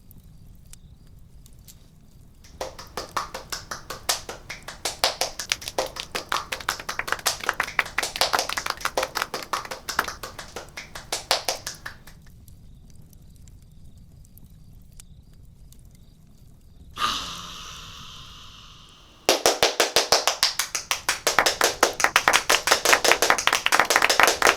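Rapid runs of sharp taps or claps, many a second, in two long stretches; the second, starting near the end, is louder. A short rushing burst comes between them.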